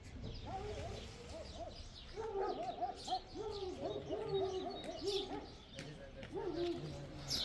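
Several birds calling: short, low, rising-and-falling calls repeated in quick runs and overlapping, with thin high chirps above them.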